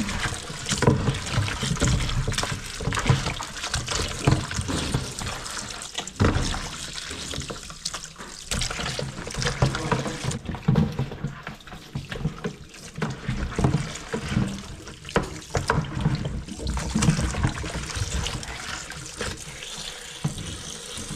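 Water running from a tap and splashing in a kitchen sink, with frequent short knocks and clatter of things being handled in the water.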